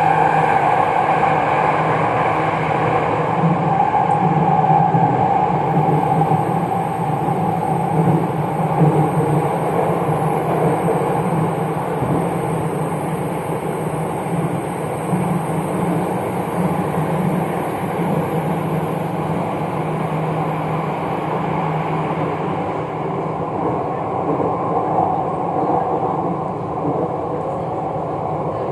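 MRT Jakarta metro train running between stations, heard from inside the carriage: a steady rumble of wheels and running gear with a low hum. A thin high whine stops about three-quarters of the way through.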